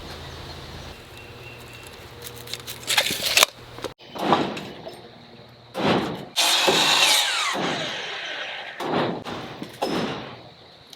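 Power drill driving screws into wooden framing boards, in about five or six short bursts with the motor pitch sliding up and down as each screw goes in.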